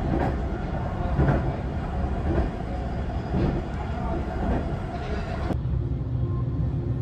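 Train running along the track, heard from inside the front cab: a steady low rumble with a clack about once a second as the wheels cross rail joints. About five and a half seconds in, it cuts off abruptly to calm music with held tones.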